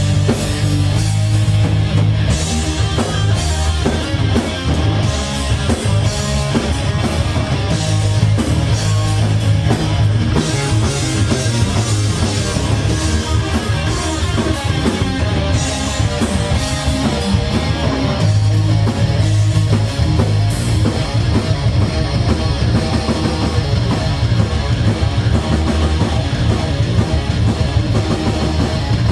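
Live rock band playing an instrumental passage: electric guitars, bass and drum kit, with no vocals.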